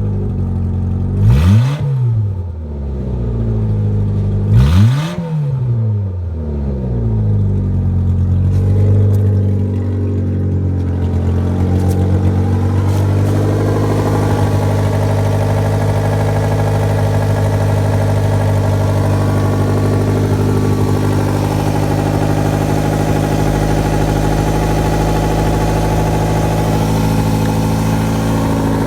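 Renault K4M 1.6-litre 16-valve four-cylinder petrol engine running just after starting. It is revved twice, quickly up and back down, in the first few seconds, then idles steadily.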